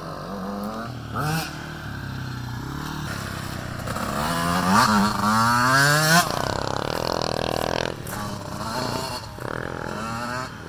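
Small youth dirt bike and quad engines revving as they ride past, the pitch climbing and dropping with each shift and throttle change; loudest about four to six seconds in.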